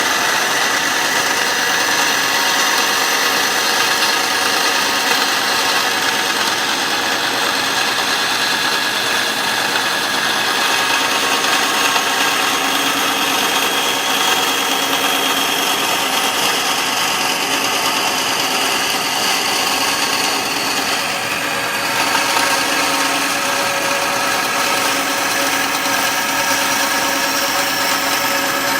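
Bandsaw running steadily, its blade slowly cutting along the shank of a tobacco pipe block.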